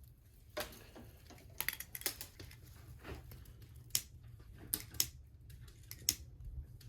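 Small twigs snapping and crackling in irregular sharp cracks, about ten over the stretch, over a low steady rumble.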